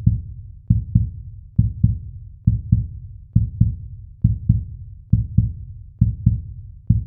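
Heartbeat sound effect: a low double thump, lub-dub, repeating steadily a little more than once a second.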